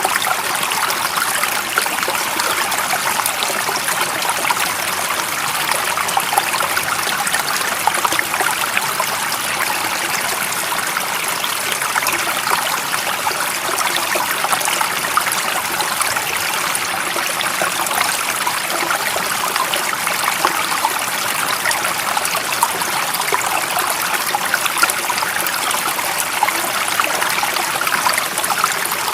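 Running water of a small stream, a steady trickling and splashing hiss with no breaks and little low rumble.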